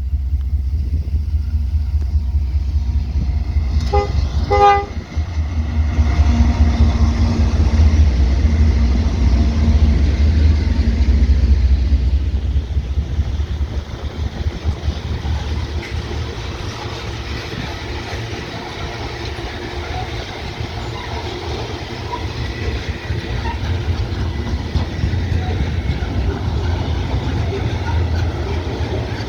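GE C44-EMi diesel-electric freight locomotive passing with a steady deep engine rumble. About four seconds in it sounds two short horn blasts.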